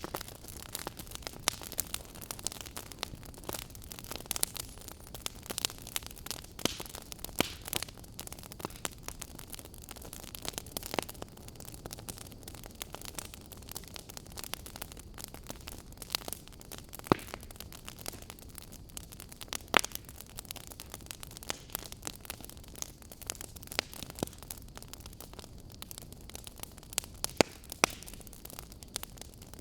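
Fire crackling: a steady low hiss with frequent irregular snaps and pops, a few louder pops now and then.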